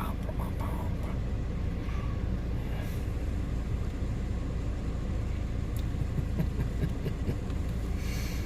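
Car rolling slowly along a dirt road, heard from inside the cabin: a steady low engine and tyre rumble.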